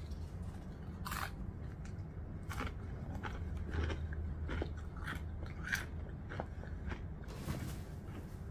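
A person chewing crunchy chips close to the microphone, with irregular crisp crunches as she bites and chews.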